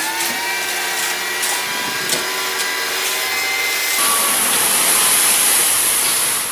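Light dump truck's engine and hydraulic tipper running as the bed is raised, with a slowly rising whine. About four seconds in the sound turns into a louder, hissing rush as the load of earth slides off the tipped bed.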